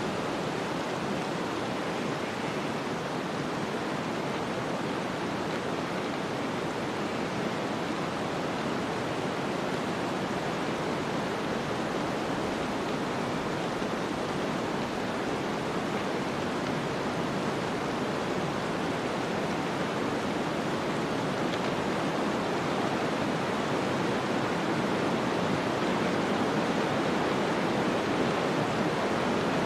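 Steady rushing snowstorm wind, an even noise with no separate sounds, swelling slightly near the end.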